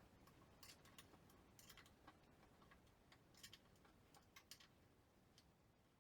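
Near silence with faint scattered light clicks and taps.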